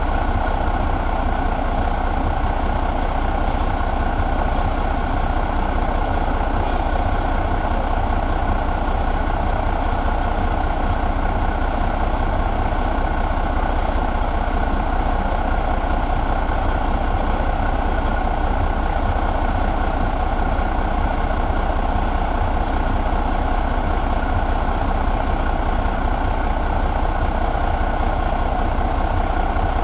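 1988 Renault engine assembly running steadily at idle, with an even, unchanging note.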